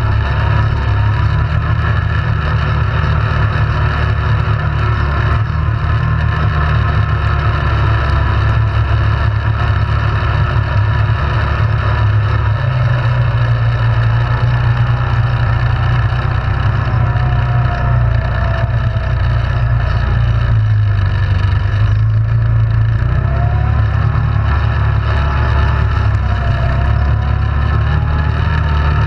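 ATV engine running steadily while riding, its pitch rising and falling gently a few times as the throttle changes.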